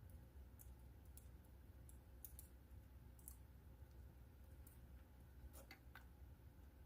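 Faint crackling of a wood fire in a fireplace: scattered, irregular small snaps and pops, a few sharper ones together about five and a half seconds in, over a low steady hum.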